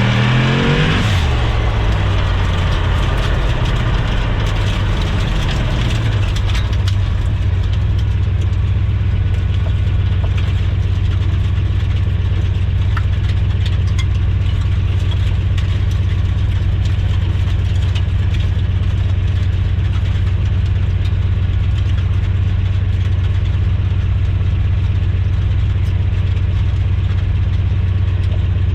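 Turbocharged LS V8 engine in a Nissan pickup, its revs falling away over the first second or two, then idling steadily.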